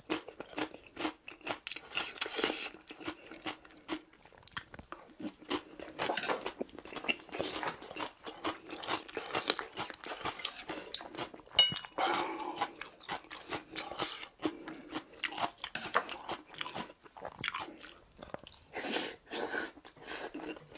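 A person chewing and crunching food close to the microphone, with many quick irregular crunches and mouth clicks.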